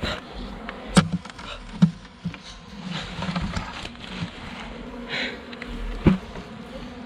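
Honeybees buzzing steadily in a low hum, broken by a few sharp knocks: one about a second in, another just before two seconds, and the loudest about six seconds in.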